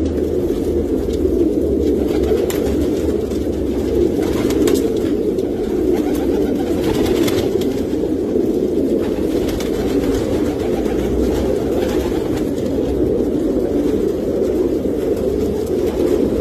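A flock of domestic pigeons cooing continuously, with many calls overlapping into one steady sound.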